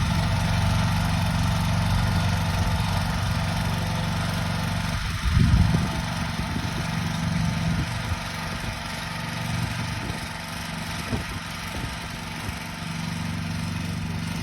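Grillo walk-behind tractor's engine running steadily, with a brief louder surge about five seconds in.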